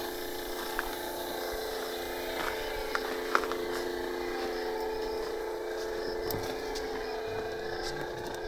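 A steady motor hum with a few faint clicks.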